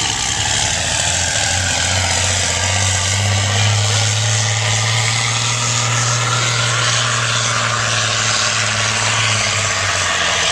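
Diesel engine of a 1989 Peterbilt 362 semi truck running hard at full throttle, pulling the sled. Its low steady drone holds for about nine seconds, then drops away near the end.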